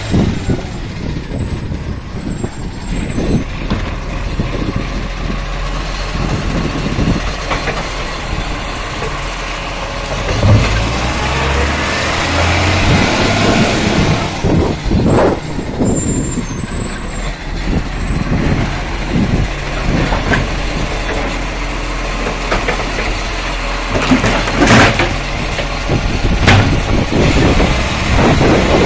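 Garbage truck running close by, a steady low engine rumble with a high squeal twice and several sharp knocks.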